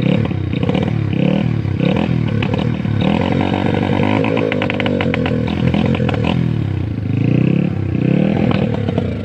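Single-cylinder dompeng diesel engine of a homemade mud motorbike running loud, its revs rising and falling unevenly several times, with one long rise and fall in the middle.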